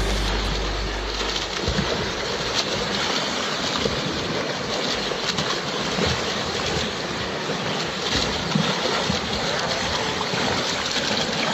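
Continuous splashing and churning of pool water from swimmers' strokes.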